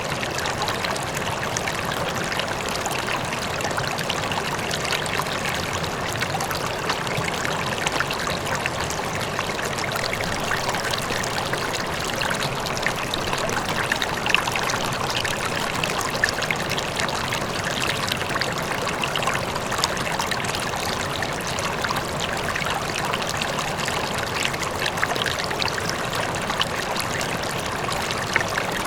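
River flowing steadily over stones, a continuous babbling rush of water with small splashes and trickles, a waterfall faint behind it.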